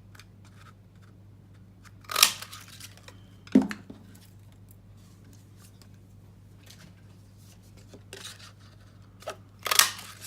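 Handheld craft paper punch (a leaf punch) cutting leaf shapes out of cardstock: a few sharp crunching snaps, spaced several seconds apart, with paper being handled in between.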